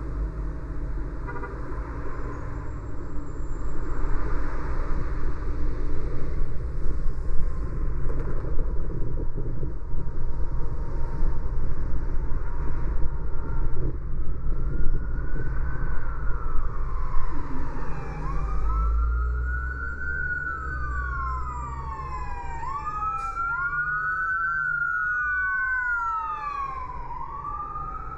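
An emergency vehicle siren wailing, its pitch rising and falling in repeated sweeps that begin about halfway through and crowd together near the end, over steady road noise from the car.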